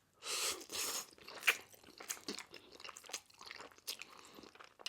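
Close-miked chewing and biting: a couple of short noisy bites in the first second, then scattered small wet mouth clicks.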